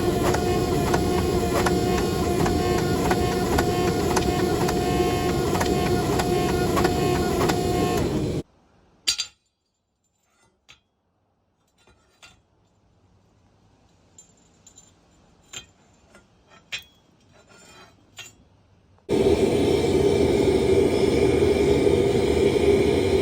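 A loud, steady machine-like rushing noise that cuts off suddenly about eight seconds in, leaving near quiet broken by a few light clicks and knocks, then starts again suddenly about ten seconds later.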